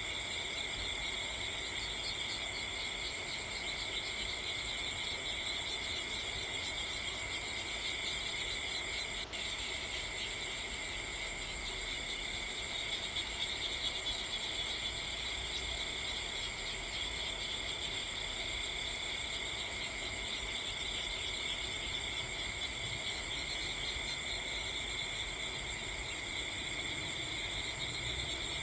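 Steady chorus of crickets, a constant high trilling at several pitches at once.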